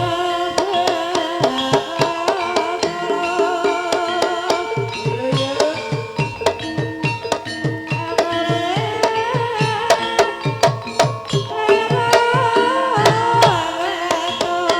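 Javanese gamelan music accompanying an ebeg dance: kendang hand drums play a steady pattern of low strokes that slide down in pitch, under struck percussion and a wavering, bending melody line.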